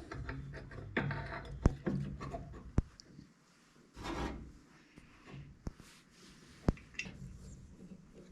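Hands fitting a work light onto its mounting bracket: scattered sharp clicks and knocks, about four over several seconds, with a short stretch of scraping and rubbing in the middle.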